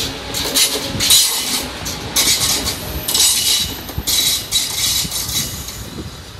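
Krösatågen passenger train moving away along the track, its wheels hissing on the rails in uneven spurts about once a second over a low rumble. The sound fades toward the end as the train draws off.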